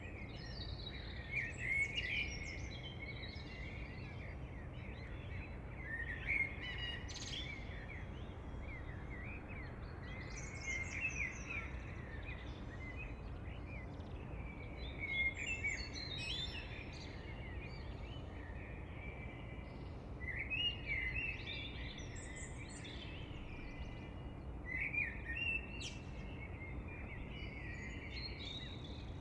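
Birdsong: bursts of quick high chirping phrases every four to five seconds, over a steady low background rumble.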